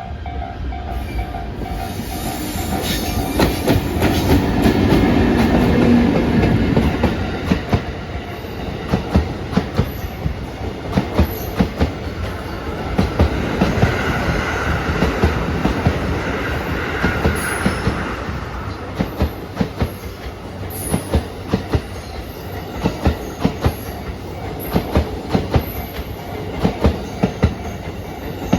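EF64 1000-series electric locomotive passing close by, hauling a new E235-1000 commuter train set. The louder locomotive goes by first. Then the wheels clack over rail joints in steady pairs, with a brief higher wheel squeal about halfway through.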